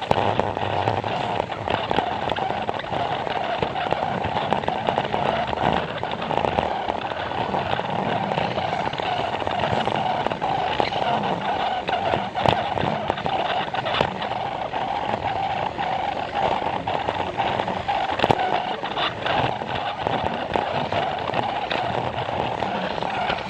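Plarail battery-powered toy train running along plastic track, its small motor whirring steadily, with occasional sharp clicks.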